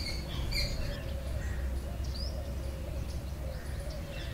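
Small birds chirping outdoors: a quick cluster of short high calls at the start and a single rising chirp about two seconds in, over a steady low background rumble.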